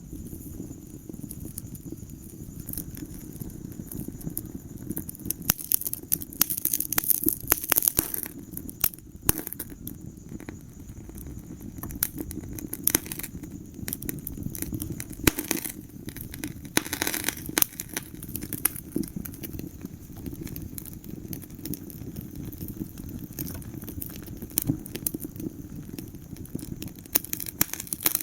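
Wood fire crackling in a fireplace: irregular sharp pops and snaps over a low steady rumble of burning, with denser clusters of crackling at a few points.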